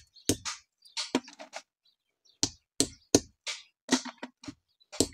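A run of sharp, irregularly spaced knocks and cracks, a little over two a second, as of something hard being struck against a hard surface.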